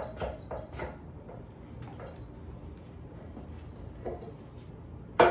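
Bird 3 electric scooter's handlebar stem assembly being pulled up by the handlebars to break it free: a few light knocks at first, then a sharp, loud clunk near the end followed by a second, softer one.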